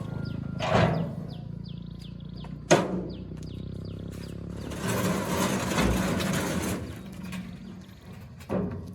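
Sharp knocks and clattering from a motorcycle being unstrapped and handled, over a low engine hum, with a run of short falling chirps in the first few seconds.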